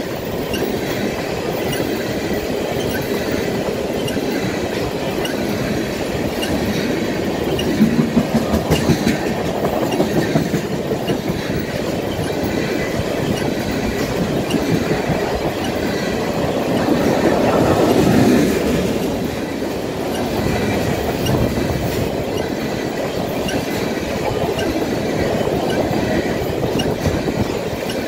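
Freight train of tank cars rolling past: a steady rumble of steel wheels on rail, with a run of louder clacks about eight seconds in and a swell in the rumble around eighteen seconds.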